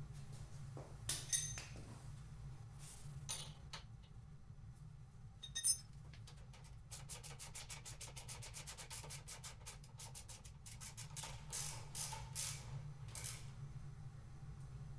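Hand-tool work on a motorcycle's front fork spring box: a few sharp metallic clicks and knocks, then a run of rapid ratchet-like clicks lasting about three seconds, followed by a few more clicks, over a steady low hum.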